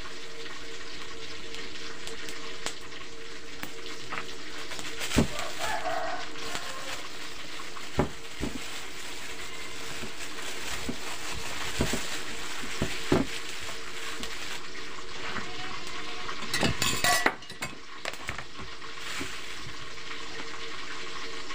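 Tofu frying in hot oil in a wok over a wood fire, a steady sizzle. A few sharp clicks sound through it, and there is a short louder burst of noise late on.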